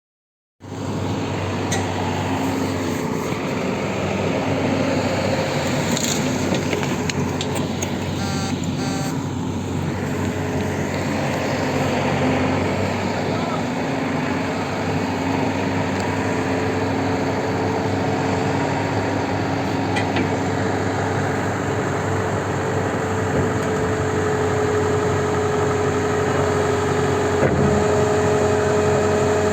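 Truck engine running steadily, starting abruptly just after the beginning, with a few faint clicks about eight seconds in.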